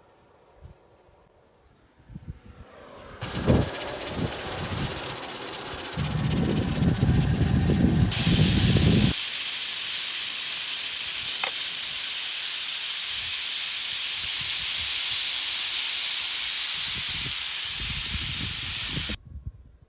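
A loud, steady hiss starts about three seconds in, grows stronger partway through, and cuts off suddenly near the end. Low rumbling and knocking sounds go along with it during its first half.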